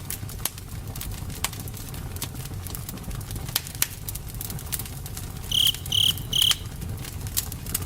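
Campfire burning with a low rumble and irregular sharp crackles and pops. About two-thirds of the way through come three short, high chirps in quick succession.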